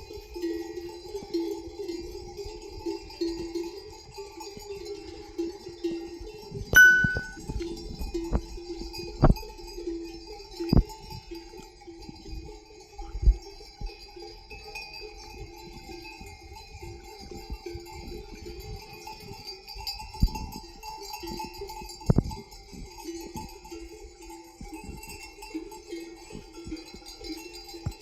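Bells hung on a grazing flock of sheep or goats clank and jingle together without a break. Several louder knocks stand out among them.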